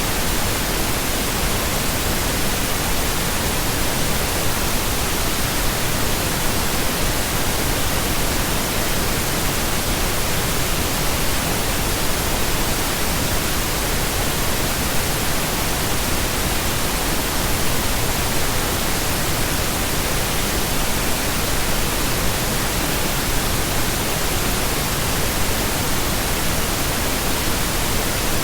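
Steady pink noise: an even, unchanging hiss spread across the whole range of pitch, with no breaks or changes.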